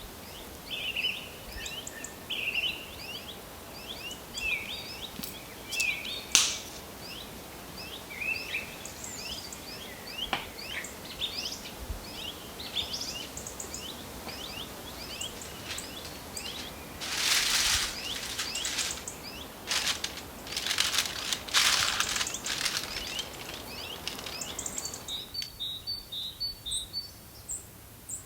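Small songbirds chirping and twittering in quick, overlapping calls. A sharp click comes about six seconds in, and a run of short rustling noise bursts follows past the halfway point.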